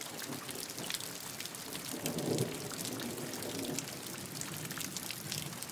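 Steady rain falling, with many sharp ticks of single drops and a brief low rumble about two seconds in.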